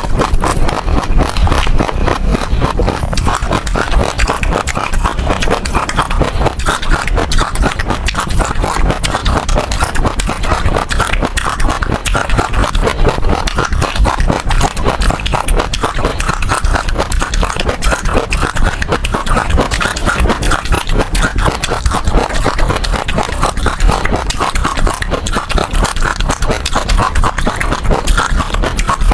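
Passion fruit seeds crunching and popping between the teeth as the pulp is chewed: a dense, unbroken crackle of many small cracks.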